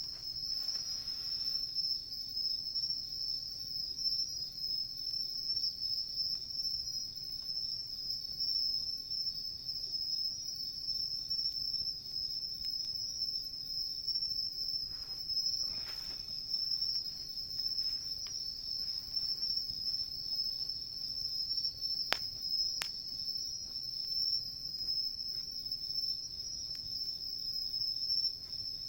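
Crickets singing in a steady, high-pitched chorus, with two sharp pops from a wood campfire about three quarters of the way through.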